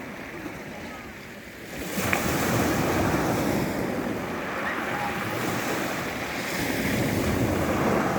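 Rough sea surf breaking on the shore: after a quieter wash, a wave surges in about two seconds in, and the rushing wash swells and eases again twice more.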